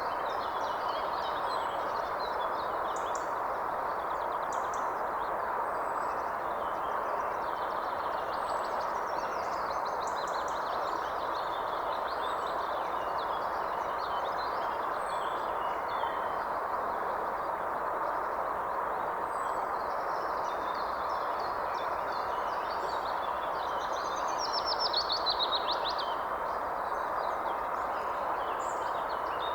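Wild birds calling and chirping over a steady, even background rush, with a thin high chirp repeating every second or two. About 25 seconds in, one bird gives a louder, quick falling trill.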